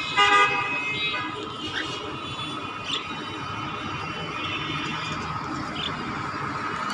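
Pet bird calling: a loud, harsh call about a quarter second in, then a few short rising chirps over a steady whistling tone.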